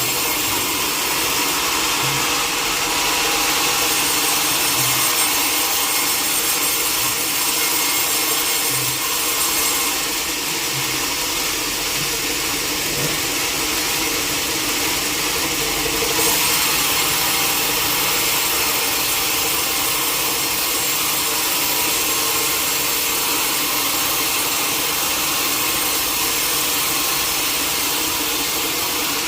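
Sawmill saw cutting through a teak log, a steady unbroken cutting noise with no pauses.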